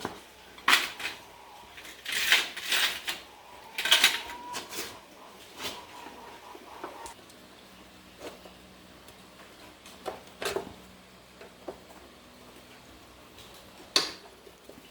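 Irregular knocks and clatter of hard objects being handled, bunched in the first few seconds, then two single knocks later. One knock about four seconds in leaves a faint metallic ring for a few seconds.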